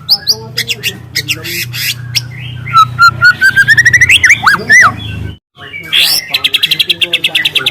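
Juvenile white-rumped shama (murai batu) singing: varied chirps and a rising run of whistled notes, then after a short break a long, fast, even trill of the kind called a canary shot (tembakan kenari).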